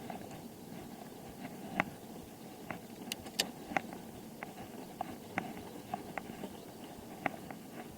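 Bicycle being ridden: steady road and tyre noise with light clicks and ticks from the bike at uneven intervals, about one or two a second.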